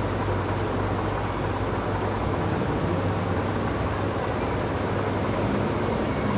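A C5 Corvette's V8 engine running at a low, steady drone as the car rolls slowly past, over street noise; the drone eases off somewhat about two-thirds of the way through.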